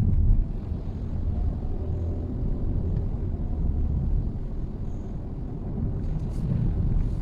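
Mitsubishi Xpander on the move: a steady low rumble of engine and road noise, with a brief louder thump just at the start.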